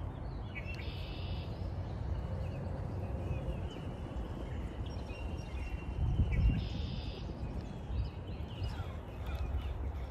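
Birds singing outdoors in two short bursts of high repeated notes, about a second in and again near seven seconds, with scattered chirps between. Under them is a steady low rumble on the microphone that swells briefly about six seconds in.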